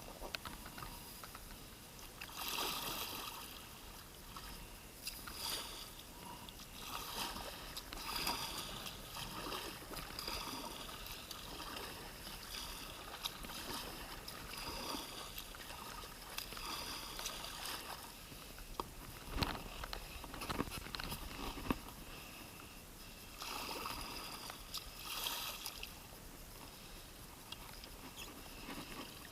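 Kayak paddle strokes dipping and splashing in shallow water, one every second or two, with a few sharp knocks about two-thirds of the way through.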